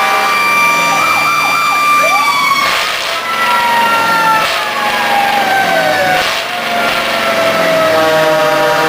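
Several antique fire truck sirens sounding at once in overlapping wails. One winds up sharply about two seconds in and then winds slowly down, while the others hold a high note and then sink in pitch.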